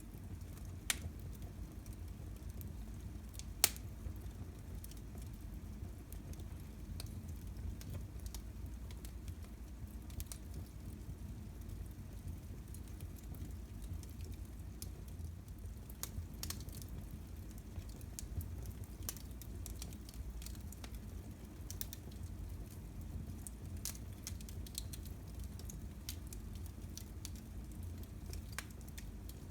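Fire burning in a fireplace: a steady low rumble with scattered crackles and pops, two sharper pops within the first four seconds.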